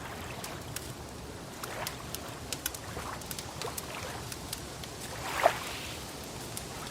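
Wood fire crackling with scattered sharp pops, over soft swells of lake water lapping; the loudest swell comes about five and a half seconds in.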